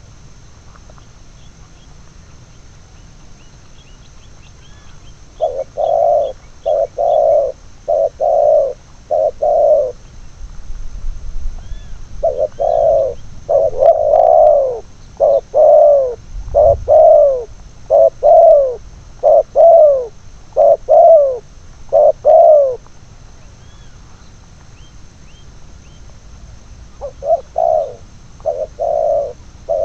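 Spotted doves (tekukur) cooing in repeated series of short, loud notes: a run of about six notes starting about five seconds in, a longer run of about ten from about twelve seconds, and another starting near the end. Faint small-bird chirps sound high above the cooing.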